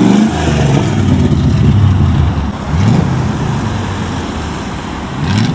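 Car engine noise, with two short rises in pitch: one about three seconds in and another near the end.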